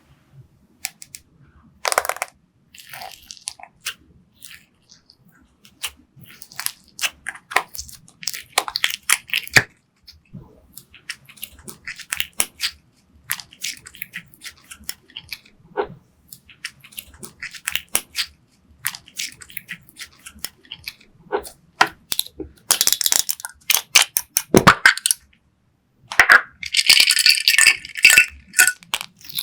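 Clear slime being handled and mixed with makeup and glitter: sticky crackles, clicks and small pops in short bursts with quiet gaps, becoming a dense crackling near the end.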